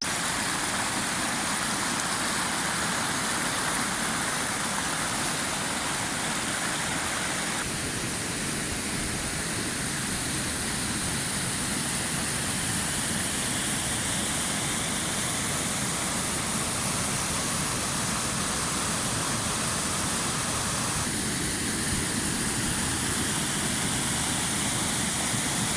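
Waterfall, water pouring steadily: an even, unbroken rush of noise, its tone shifting slightly about eight seconds in and again past twenty seconds.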